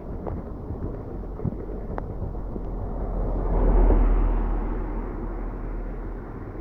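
A vehicle passing on the wet road, its tyre noise swelling to a peak about four seconds in and then fading, over a steady rush of rainwater running down the street.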